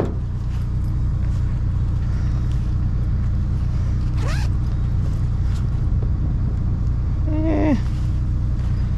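A vehicle engine idles steadily in the background. Over it a small fabric bag is handled and unzipped, with clicks and rustles, and there is a short rising squeak about four seconds in.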